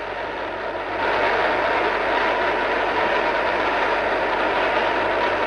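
A large congregation praying aloud all at once: a steady, dense din of many voices in which no single speaker stands out.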